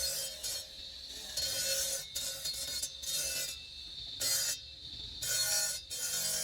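Abrasive hand tool scraping across marble in short, irregular strokes, about one a second, as the carved stone is shaped and smoothed.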